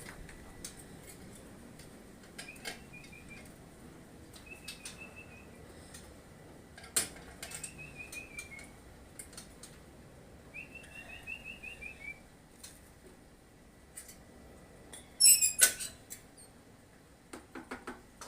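Small songbirds calling in short, rapid trills of notes that fall slightly in pitch, several times over. A louder burst of sharp, high chirps comes about fifteen seconds in, with scattered light clicks throughout.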